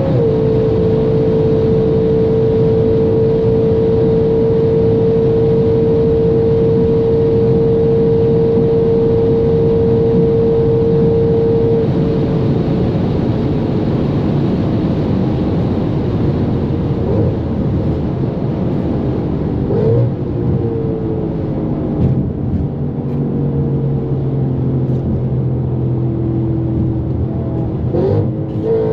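Straight-piped Audi RS5 B8's 4.2-litre V8 running at high speed, holding a high, steady pitch over heavy wind and tyre noise, then coming off the throttle about twelve seconds in with its pitch falling away. A few short sharp blips follow later on, and the engine starts revving up again at the very end.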